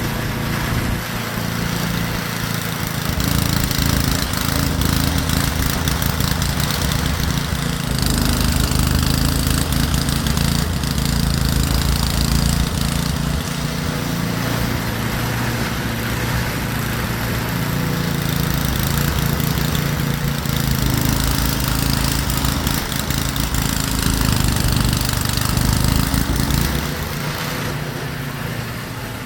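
A small engine running steadily, its sound swelling and easing every few seconds.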